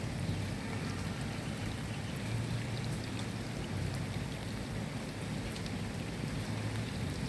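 Steady rain falling, with scattered individual drop ticks over a low, steady rumble.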